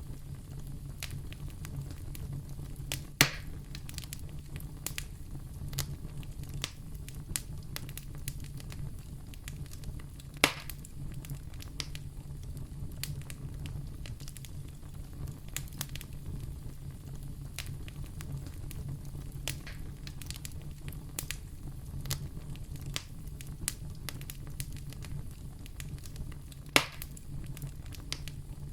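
Fire in a fireplace crackling, with a steady low rumble under a constant scatter of small snaps and three louder pops: one about three seconds in, one about ten seconds in, and one near the end.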